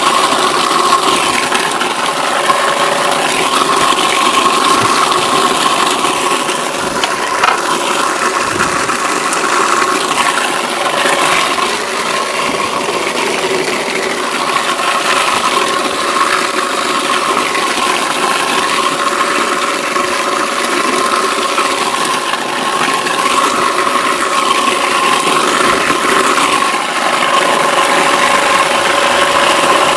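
Homemade apple crusher driven by a Zarya 2M washing-machine motor running steadily, its motor hum held at one pitch under the irregular rattling crunch of apples being shredded.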